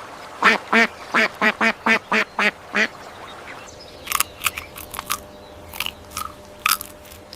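A duck quacking in a quick series of about nine quacks over the first three seconds, followed by a run of short, sharp clicks.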